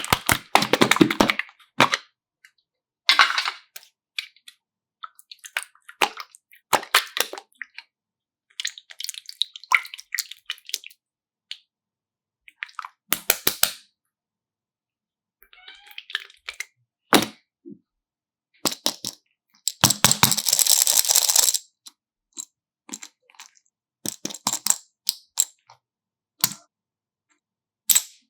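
Close-up handling sounds: scattered sharp clicks, cracks and crackles, with a hiss lasting about a second and a half about twenty seconds in.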